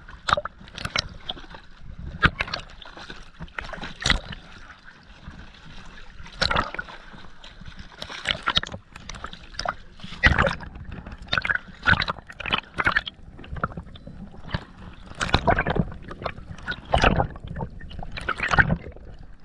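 Water gurgling and sloshing in irregular bursts, several a few seconds apart.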